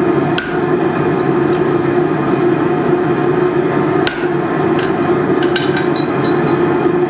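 Hammer striking metal on an anvil, six or seven irregular blows with short metallic rings, over a loud steady noise from the shop.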